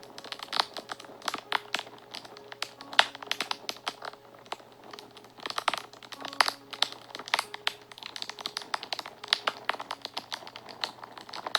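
Wood fire crackling and popping, with a dense, irregular run of sharp snaps. Faint sustained notes of soft background music sit underneath.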